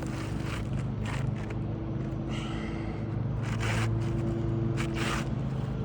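Asphalt roofing shingle scraping and rustling in short strokes as it is slid and worked into place under the course above, over a steady low hum.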